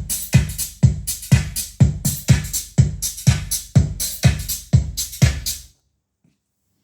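Electronic dance music with a steady kick-drum and hi-hat beat, about two beats a second, played through Yamaha FX-3 loudspeakers freshly recapped and with the midrange repaired. The music cuts off abruptly near the end.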